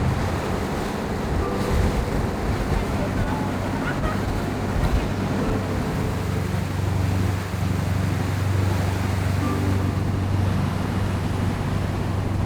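A boat's engine running steadily as a low hum, under wind and water noise.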